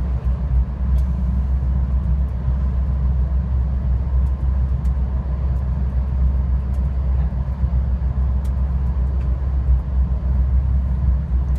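Steady low rumble of a moving VIA Rail LRC passenger train, heard from inside the coach, with a few faint clicks.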